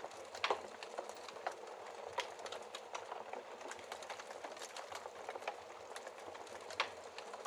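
Wood fire crackling in a fireplace: a steady hiss dotted with frequent small crackles, and two louder pops, about half a second in and near the end.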